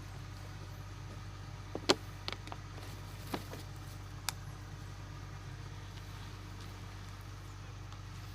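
Heavy diesel engine running steadily at low revs, with a few sharp knocks, the loudest about two seconds in.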